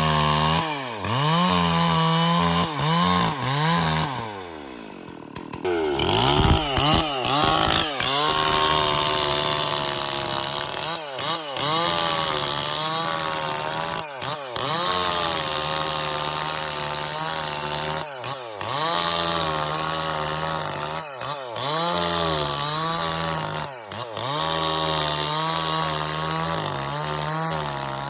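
Stihl MS440 two-stroke chainsaw running hard, its engine pitch rising and sagging over and over as it works. About four seconds in it slows down briefly, then picks up speed again.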